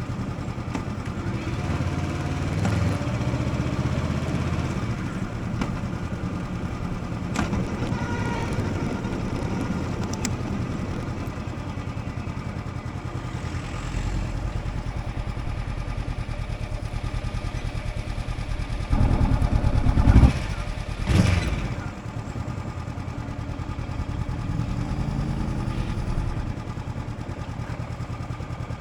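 Motorcycle engine running steadily, with a brief louder surge about two-thirds of the way through.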